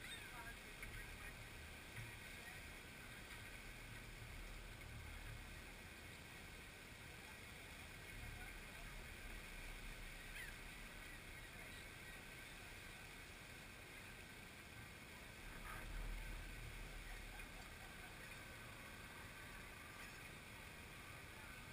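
Faint outdoor ambience with a low rumble on the microphone that swells briefly about sixteen seconds in; a few bird calls trail off at the very start.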